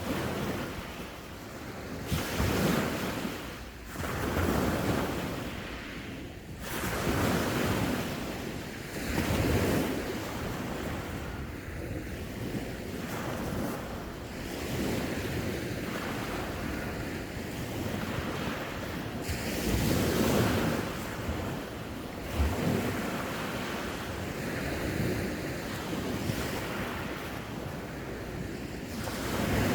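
Sea waves breaking and washing on the shore, surging every few seconds, with wind buffeting the microphone.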